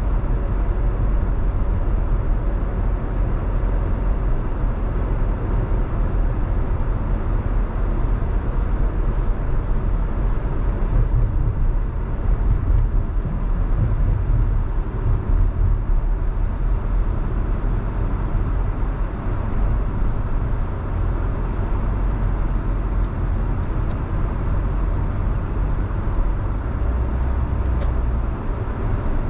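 Car driving on a wet road: steady tyre and engine noise, strongest in the low rumble.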